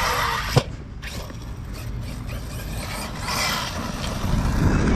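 Large electric RC truck running flat out with a high motor whine, then one sharp landing impact just over half a second in, after which it goes quieter. About three seconds in the motor whine rises again, with a low rumble toward the end.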